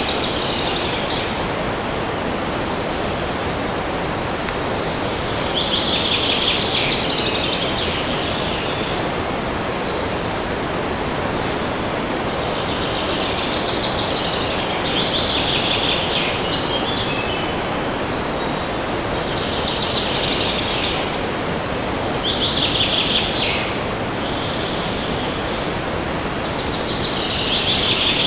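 Steady rush of wind in a forest, with a songbird singing about six trilled phrases, each a second or two long, a few seconds apart.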